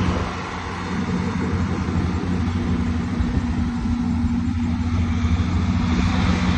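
Tractor engine running steadily, with a deep, even firing beat.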